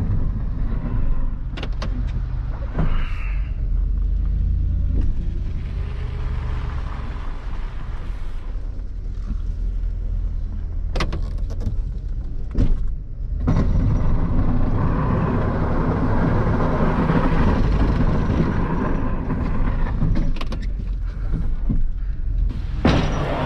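Plow truck scraping a thin coat of snow off a parking lot. The engine runs steadily throughout, with scattered knocks and clicks, and a louder scraping rush in the second half.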